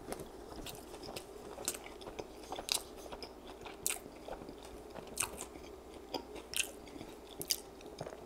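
Close-miked chewing of a sauced, breaded chicken tender, with sharp wet mouth clicks at irregular intervals, about one a second, over a faint steady hum.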